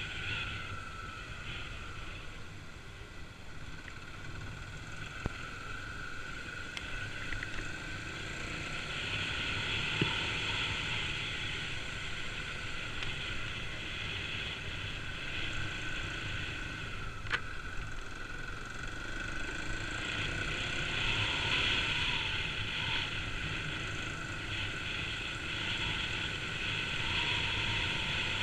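Kawasaki KLX250 single-cylinder four-stroke engine running as the bike is ridden along a forest trail, its pitch shifting with the throttle, with wind on the microphone. Two brief knocks come through along the way.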